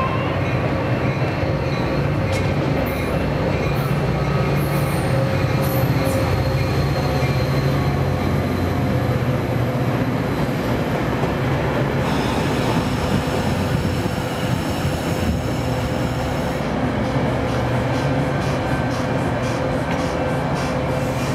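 A Metra bi-level commuter train passing close by at speed, its wheels making a steady rumble on the rails. Near the end, evenly spaced clicks come as the wheels run over rail joints.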